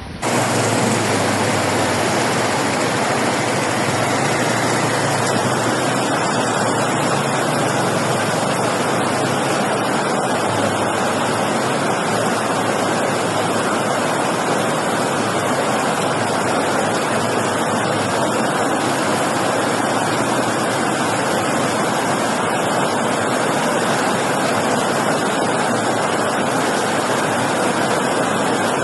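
Heavy rainstorm: a loud, steady rush of downpour and running water. It cuts in suddenly just after the start.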